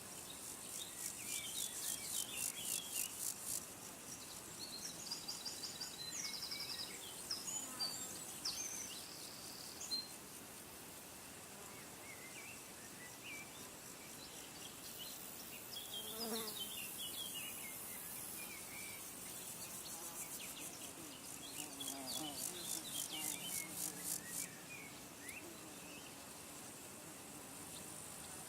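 Outdoor nature ambience: small birds chirping on and off, and a very high, rapidly pulsing insect trill that comes in twice, near the start and again late on.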